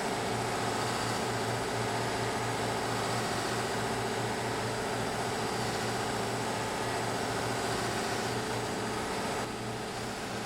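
Electric buffing machine running steadily, its compound-loaded buffing wheels polishing the lacquer finish on a wooden stave drum shell: a constant motor hum with a light hiss, dipping slightly about nine and a half seconds in.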